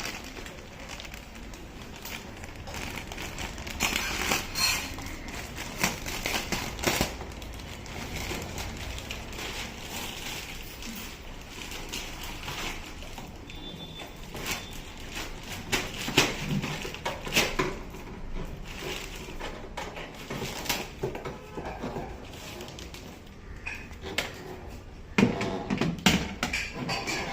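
Irregular handling noises: scattered knocks, taps and crackling, with no steady machine sound.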